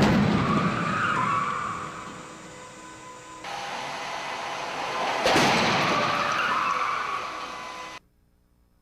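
Two car crashes, each a sudden loud impact followed by a couple of seconds of scraping and skidding noise that dies away. The second comes about five seconds in, and the sound cuts off abruptly near the end.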